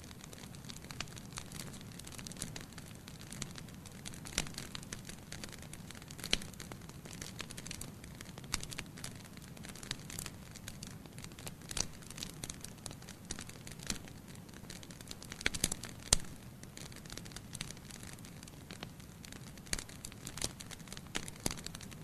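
Wood fire burning in a fireplace: a steady low rumble with irregular sharp crackles and pops, a cluster of louder pops about two thirds of the way in.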